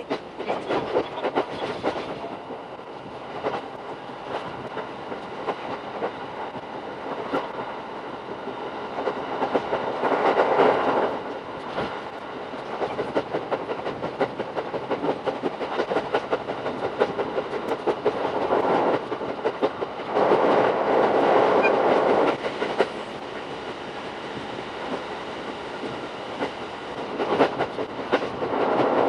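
Shinano Railway SR1 series electric train heard from inside the car, sped up six times, with a dense, rapid clickety-clack of wheels over rail joints and the running rumble rising and falling. It gets louder for a stretch about ten seconds in, again from about twenty to twenty-three seconds, and near the end.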